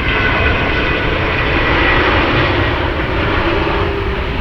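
Jet airliner engine noise: a loud, steady rush, with faint high whining tones that fade about halfway through.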